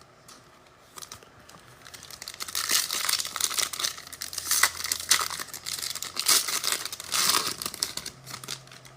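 Trading-card pack wrapper being torn open and crinkled, a dense crackling rustle with sharp ticks that starts about a second in and dies away near the end.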